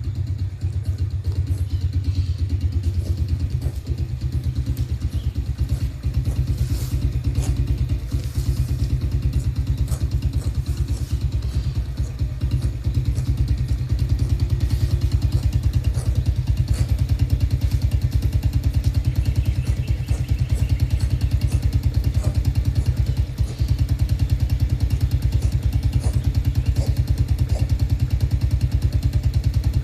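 An engine running steadily with rapid, even firing pulses, a little louder in the second half.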